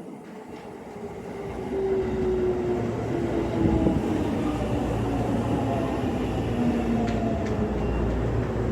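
A train running through the station, growing louder about two seconds in, with several tones that slide slowly down in pitch.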